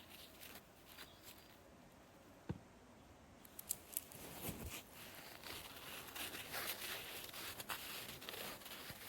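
A sponge being worked by hand, with crisp crackling and rustling that starts about three and a half seconds in and carries on with frequent small clicks. Before that there are a few light clicks and one sharp click.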